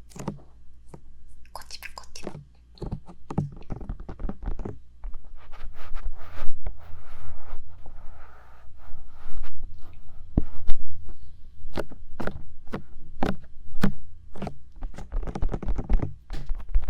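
Bare fingers tapping and rubbing directly on the ears of a 3Dio binaural microphone: irregular sharp taps with deep thuds, and a few seconds of rubbing about a third of the way in.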